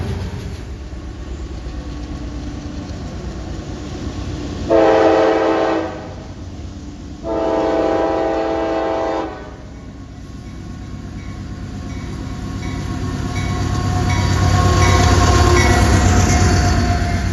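Locomotive air horn sounding a short blast and then a longer one, a chord of several steady tones. Then the low rumble of a train swells as it draws near, with faint regular clicking, loudest a few seconds before the end.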